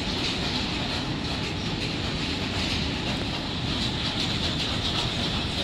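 Freight train of tank wagons rolling steadily past: continuous noise of steel wheels running on the rails.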